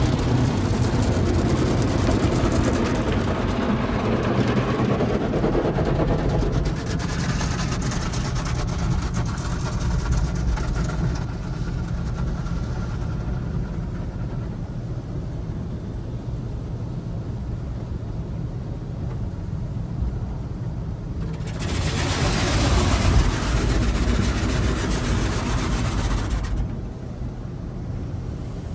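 Automated car wash running: a steady low rumble under a rushing noise that fades out after about fourteen seconds, with a faint whine partway through, then a sudden loud rush about twenty-two seconds in that lasts about five seconds before dropping away.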